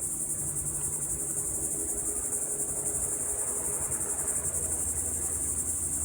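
Steady, high-pitched chorus of insects trilling continuously, with a faint low hum underneath.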